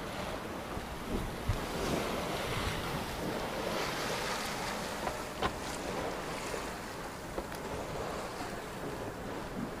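Wind buffeting the microphone and waves washing against the hull of a Hanse 342 sailing yacht under sail, with a few short, sharp knocks.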